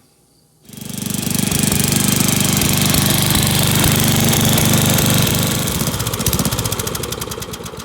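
Small single-cylinder Briggs & Stanton engine of an old Dynamark riding mower running. It comes in loud about a second in, runs steadily, then slows and fades near the end as it winds down.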